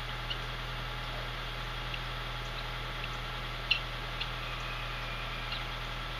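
Short, high bird chirps, about six of them scattered, the loudest a little past halfway, over a steady low hum and hiss.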